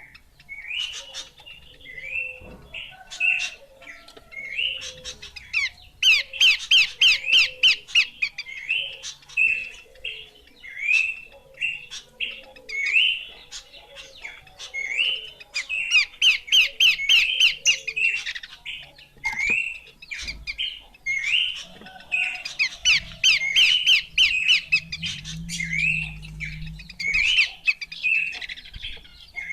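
Horsfield's babbler (pelanduk semak) calling continuously: short rising whistled notes about once a second, broken by several fast rattling chatter runs, with fainter lower notes underneath in the first half.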